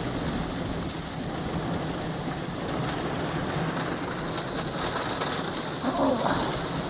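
Hailstorm: hail and heavy rain drumming steadily on the roof and window, heard from indoors.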